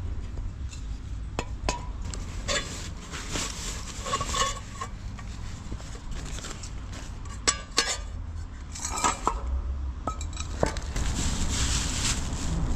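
Camp cookware and utensils clinking and knocking as they are handled, in scattered irregular strikes, a few with a short metallic ring.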